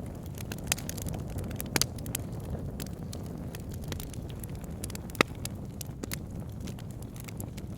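Wood fire burning in a log burner: a steady low rush of flames with scattered crackles and pops of burning logs, the sharpest pop about five seconds in.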